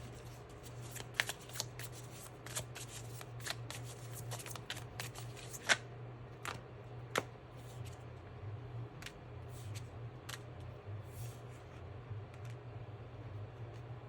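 Tarot cards being shuffled: a quick run of card snaps and riffles through the first six seconds or so, then sparser ones, over a steady low hum.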